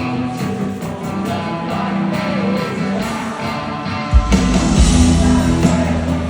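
Live rock band music led by guitar, with bass and drums coming in heavily about four seconds in.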